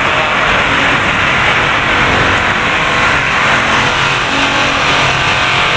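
Loud, steady road traffic noise from cars and trucks passing close by, picked up on a phone's built-in microphone.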